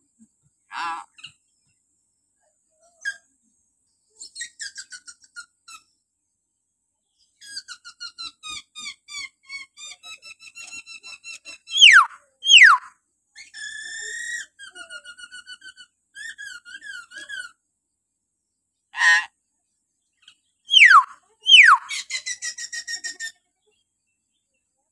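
Hill myna giving shrill whistles and calls: runs of quick repeated chattering notes, and twice a pair of loud, sharp whistles sliding steeply down, once about halfway through and once near the end; these pairs are the loudest sounds.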